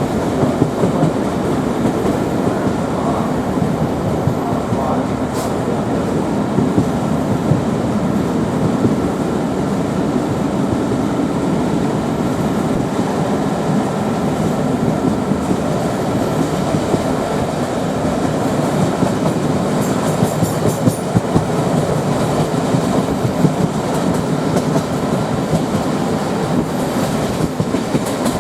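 D1 diesel multiple unit running along the line, its wheels clattering steadily over the rail joints beneath a continuous rumble, heard from inside the coach.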